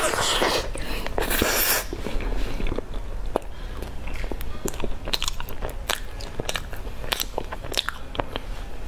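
Close-miked biting and chewing of a grill-marked toasted sandwich filled with dark rice and melted cheese. There is a loud bite about a second and a half in, and many small, sharp mouth clicks of chewing throughout.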